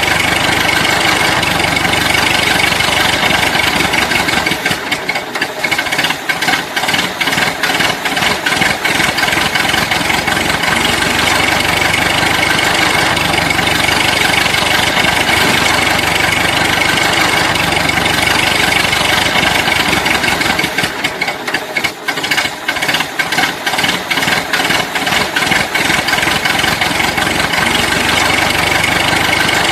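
A steady engine-like running sound with a rattle. It turns choppy and uneven for a few seconds twice, about four seconds in and again about twenty seconds in.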